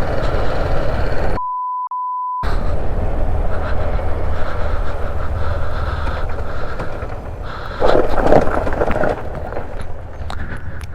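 A clean one-second beep at a single steady pitch, with all other sound cut out, about a second and a half in, set into steady road noise from a BMW G310R motorcycle on the move. A louder rush of noise comes and goes near the end.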